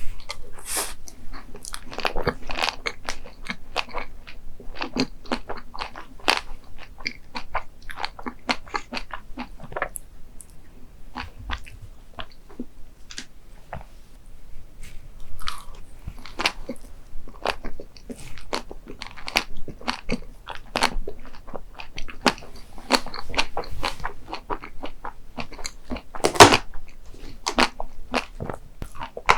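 Close-miked eating sounds: a person biting into and chewing crunchy desserts, with many irregular crisp crunches and one loud bite about 26 seconds in.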